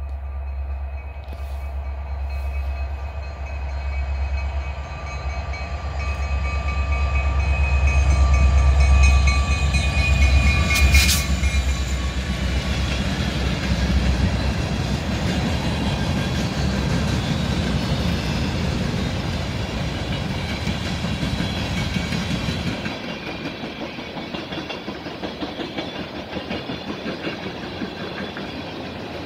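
A freight train's two EMD diesel locomotives, an SD75I and an SD70M-2, pass with a deep engine drone that peaks about 9 to 11 seconds in. Freight cars then roll by with a steady rhythmic wheel clatter, and the drone drops away a little over 20 seconds in.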